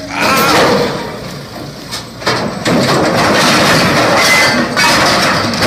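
Loud crashing and scraping noise as a truck flips over, with a brief lull about a second in.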